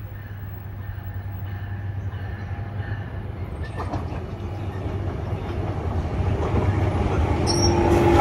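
NJ Transit ALP-45A dual-mode locomotive approaching under diesel power, pulling multilevel coaches. Its engine hum grows steadily louder as it nears, with one sharp click about four seconds in. The rumble of wheels on rail builds near the end.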